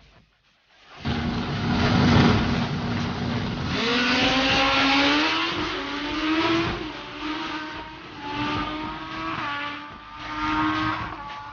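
A drag-racing motorcycle launching hard and accelerating down the strip: the engine holds a steady note, then climbs in pitch and drops back several times as it shifts up through the gears, fading as it pulls away.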